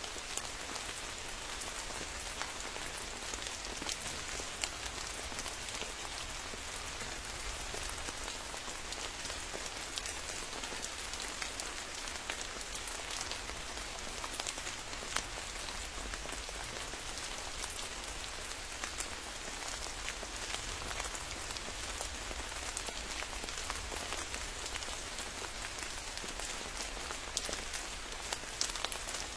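Steady rain falling, an even hiss with many sharp individual drop hits standing out.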